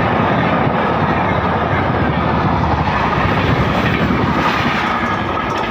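A train running past at speed: a loud, steady rumble and rush of wheels on rails, easing slightly near the end.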